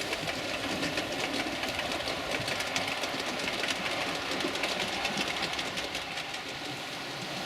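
Model train running along the layout's track: a steady small-motor whir with rapid light clicking of the wheels over the rail joints.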